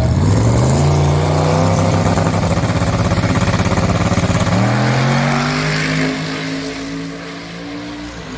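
Drag-race car accelerating hard down the strip: the engine note climbs in pitch over the first second, holds, then shifts up about halfway through and fades as the car pulls away.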